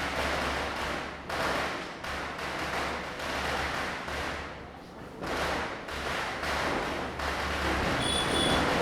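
Diwali firecrackers bursting one after another, a bang every half second to second, each trailing off in echo, over a steady low hum. Near the end a brief high steady tone sounds.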